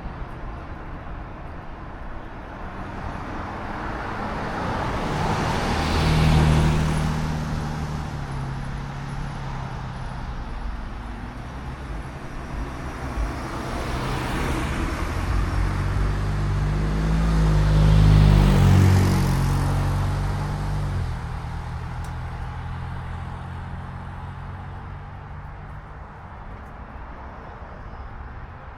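Road traffic over steady road noise: one vehicle passes close by about six seconds in, and a louder one with a deep engine note passes about eighteen seconds in, each swelling up and fading away.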